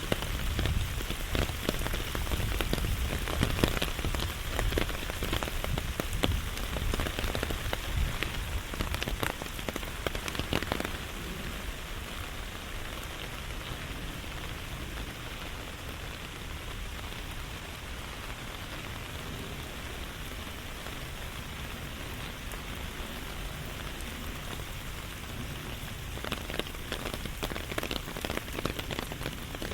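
Steady rain falling, with close, sharp drop hits for about the first ten seconds and again near the end, and a quieter, even hiss in between.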